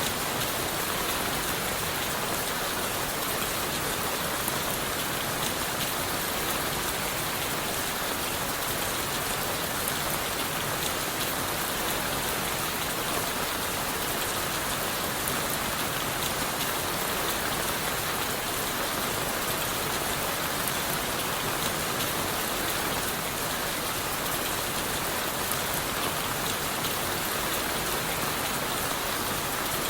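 Steady rain falling on leaves, wood and the forest floor, an even hiss of many drops with fine individual drop taps, unchanging throughout.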